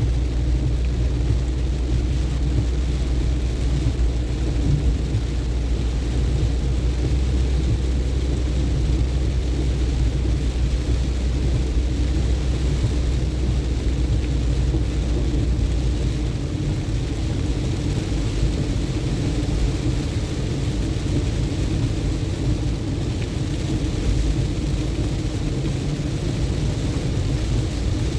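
Steady road and engine rumble of a car driving in the rain, heard from inside, with a constant wash of rain and tyre noise. The deepest part of the drone drops away about sixteen seconds in.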